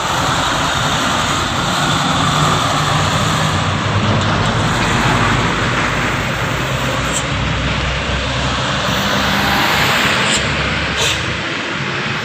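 Heavy truck's diesel engine running steadily, with road noise. A few short, sharp high clicks come about two-thirds of the way through.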